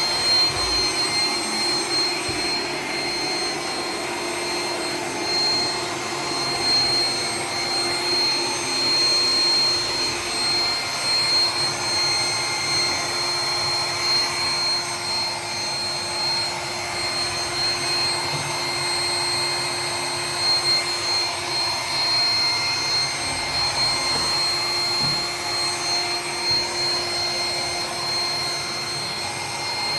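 Roomba 980 robot vacuum running steadily: a constant motor whine over an even whirring rush, with small rises and dips in loudness.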